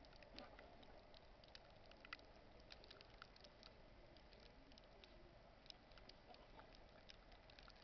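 Near silence: faint, irregular light ticks over a low hiss.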